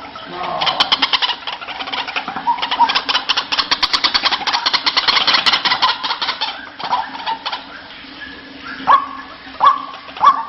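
White-breasted waterhen calling: a long run of rapid, closely repeated chattering notes, then a few separate, well-spaced calls near the end.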